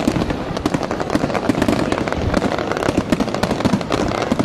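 Fireworks going off: a dense, unbroken rattle of sharp bangs and crackles, many a second.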